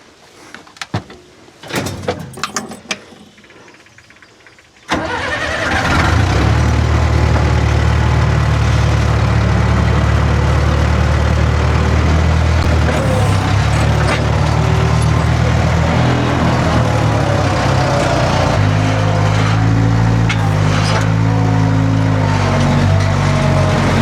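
A few clicks and knocks, then about five seconds in a large engine comes in abruptly and runs steadily at a low, even note, which shifts slightly a couple of times later on.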